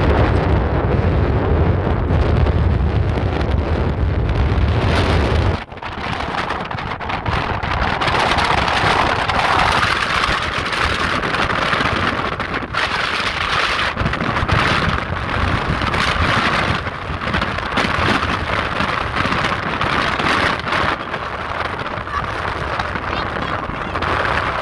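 Strong wind buffeting the microphone, with a heavy low rumble that drops away suddenly about five seconds in, then a steady rushing hiss of wind.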